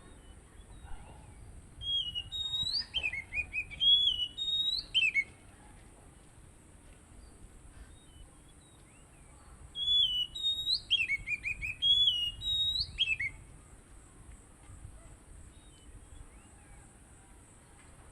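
Oriental magpie-robin (kacer) singing: two phrases of loud, clear whistled notes with rising slurs and short falling trills, each about three seconds long, the second starting about ten seconds in.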